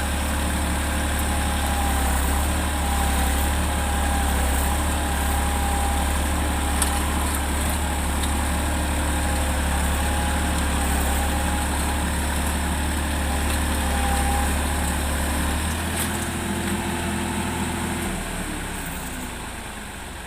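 Massey Ferguson tractor's diesel engine running steadily. About sixteen seconds in, its note changes, and near the end the pitch drops and it gets quieter.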